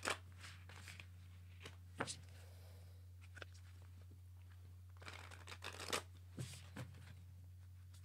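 Tarot cards being handled: a few soft scrapes and taps of cards sliding and being set down, over a steady low hum.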